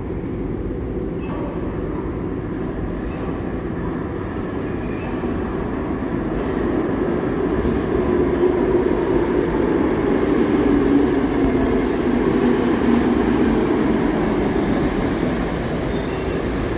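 New York City subway train running, a steady rail noise that swells louder in the middle and eases off toward the end.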